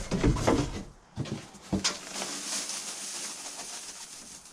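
Plastic nesting buckets being handled and emptied: a few sharp knocks in the first two seconds, then a fading rustle of bedding.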